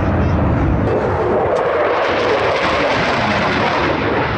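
Loud rushing noise of an aircraft in flight. It deepens at first, then brightens and spreads higher about two seconds in.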